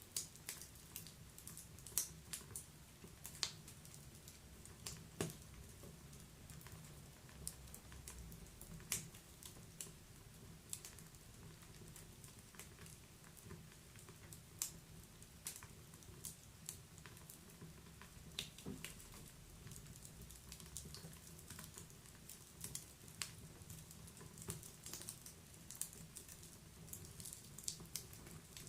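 Wood fire crackling in a fireplace: irregular sharp pops and snaps of burning logs, a few louder ones standing out, over a soft low rumble of the flames.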